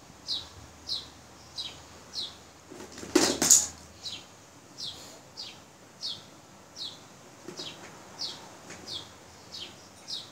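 A small bird chirping: one short, high, falling note repeated steadily about every two-thirds of a second. About three seconds in comes a single louder, brief scrape or rustle.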